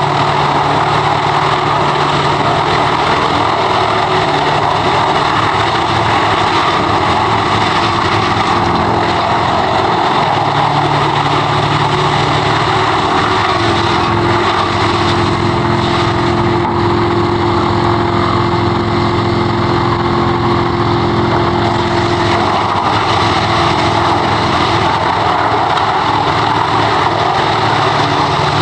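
Large wood chipper running steadily: a continuous engine hum under a dense, even rush of noise, with no let-up.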